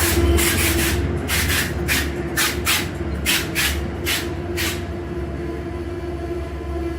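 Amtrak passenger train moving past, its locomotive giving a steady hum and rumble. For the first five seconds or so there is a run of short clattering bursts in uneven groups, as the wheels pass over rail joints or switches.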